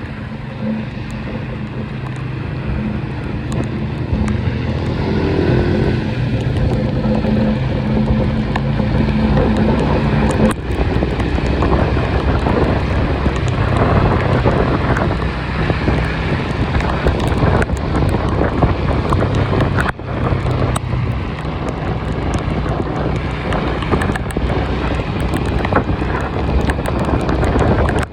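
A vehicle engine droning steadily under wind noise on the microphone; the engine's hum shifts about ten seconds in.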